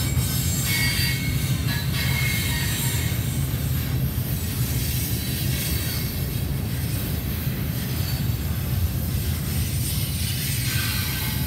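CSX double-stack intermodal freight train's well cars rolling past close by: a steady low rumble of steel wheels on rail, with thin high-pitched wheel squeals in the first two seconds.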